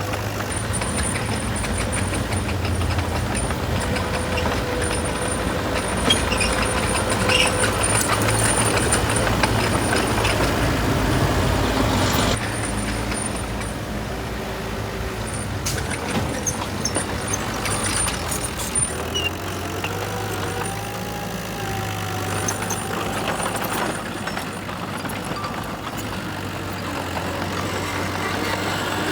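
Heavy diesel engines of dump trucks and a bulldozer running. The engines grow louder about a fifth of the way in, then drop off suddenly before the middle and carry on at a lower level.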